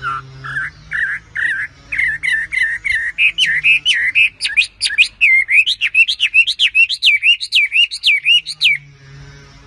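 A bird singing a long run of repeated chirps, about three a second at first, growing quicker, higher and louder, then stopping near the end.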